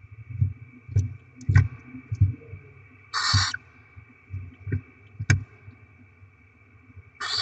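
Barn owl chicks giving rasping, hissing begging calls: two short bursts about four seconds apart. Soft knocks and thumps from the owls moving in the nest box come in between, over a faint steady whine.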